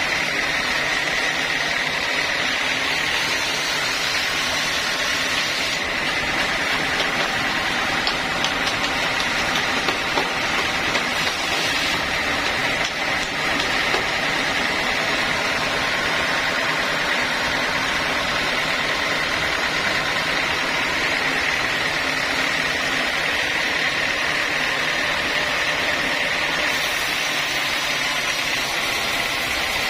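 Sawmill saw running steadily, with a constant high whine over its noise.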